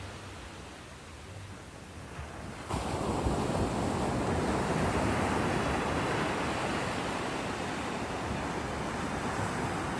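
Ocean surf washing ashore, with wind buffeting the microphone. The noise steps up sharply and becomes louder about a third of the way in, then stays steady.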